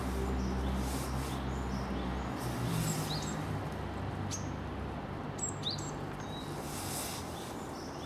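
A handful of brief, high, thin bird chirps a second or so apart, heard over a steady low hum.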